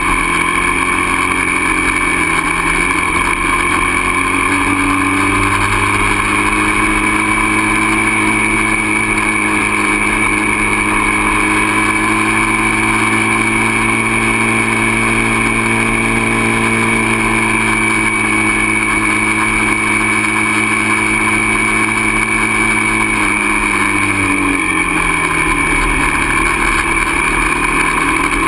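Dirt bike engine running while riding, its pitch climbing over the first few seconds, holding steady for a long stretch, then dropping about 23 seconds in and climbing again near the end.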